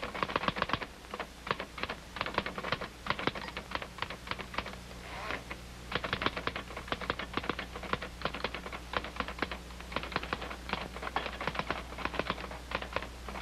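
Manual typewriter being typed on in quick runs of keystrokes, with a short pause partway through.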